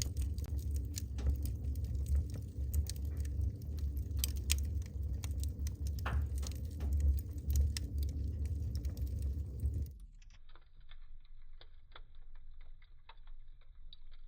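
Wood fire crackling in a fireplace, with irregular sharp pops over a low rumble of flames. About ten seconds in the sound changes abruptly: the rumble drops out and the crackling goes on quieter and thinner.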